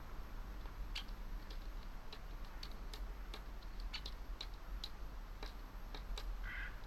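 Woodpecker tapping on wood with single sharp knocks at an irregular pace, about one or two a second, rather than a drumming roll.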